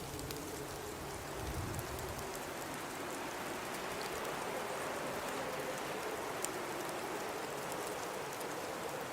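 Blizzard ambience: a steady hiss of high wind and blowing snow, with a low rumble in the first two seconds and scattered faint ticks.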